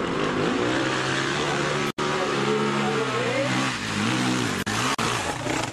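Motorcycle engine revving, its pitch climbing, holding, then dipping and rising again, with a brief cut in the sound about two seconds in.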